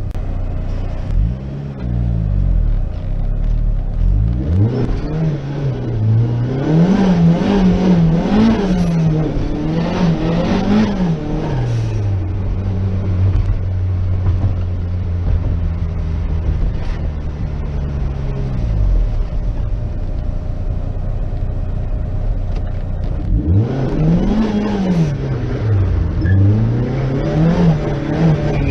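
Turbocharged Rover 1.8 K-series engine of an MG TF with a VF35 turbo, its revs repeatedly rising and falling. It holds a steady pitch for several seconds in the middle, drops to a lower steady note, then climbs and falls again near the end.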